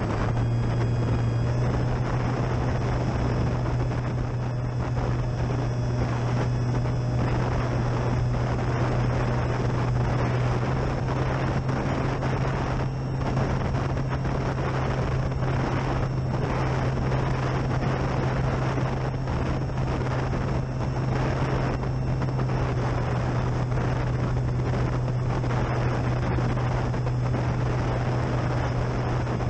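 Durafly Tundra RC plane's electric motor and propeller in flight, a steady low drone with a faint high whine above it. Wind rushes and buffets across the microphone in gusts.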